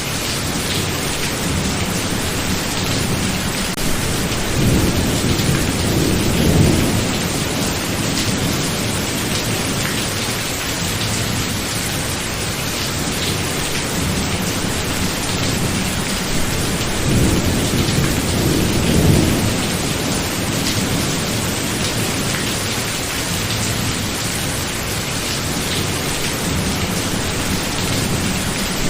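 Thunderstorm: steady rain with two long rolls of thunder, the first about four seconds in and the second about seventeen seconds in, each swelling for a few seconds before fading back into the rain.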